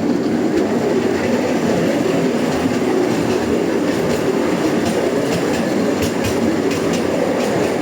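Steady rumble of a moving vehicle heard from on board, with a few faint clicks about halfway through.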